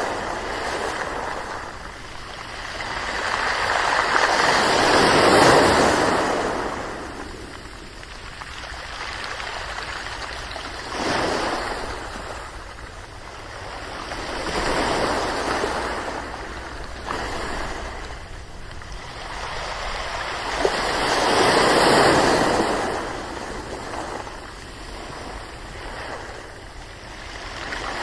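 Ocean waves breaking and washing on the shore, each swell rising and falling away every few seconds, the biggest at about 5 and 22 seconds in.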